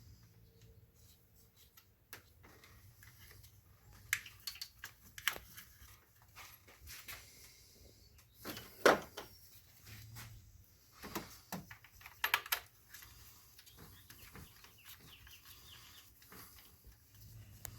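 Scattered faint clicks and knocks of a hand wrench working the 12 mm terminal nut onto the alternator, with a louder knock about nine seconds in.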